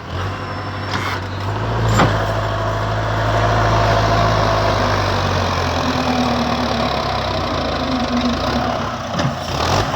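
Tractor's diesel engine running hard under load, its deep drone building at the start. There is a sharp knock about two seconds in, and the deepest part of the engine note drops away about six seconds in.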